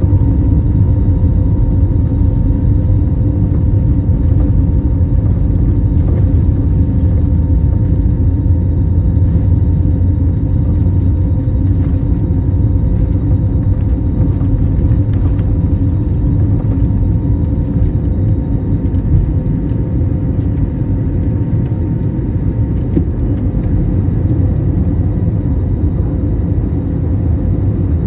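Airbus airliner's jet engines running at takeoff thrust: a loud, steady, low rumble with a faint steady whine above it, easing off slightly near the end.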